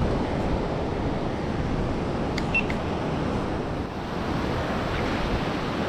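Steady wash of surf on a beach, with wind on the microphone, and a few faint clicks about two and a half seconds in.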